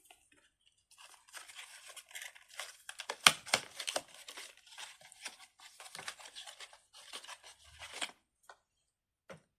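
Crinkling, rustling handling noise of plastic fidget toys, broken by scattered clicks, the sharpest about three seconds in.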